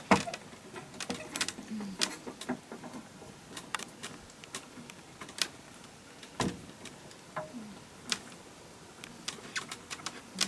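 Irregular sharp clicks and knocks of objects being handled, a few a second, the loudest right at the start.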